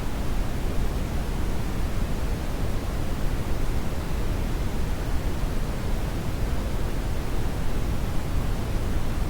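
Steady synthetic brown noise: an even, deep rumbling hiss with most of its energy at the low end, unchanging throughout.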